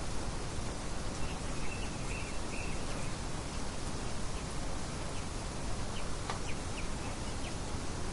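Nature ambience of a few faint bird chirps over a steady, even hiss: a short run of chirps between about one and a half and three seconds in, then scattered single chirps later.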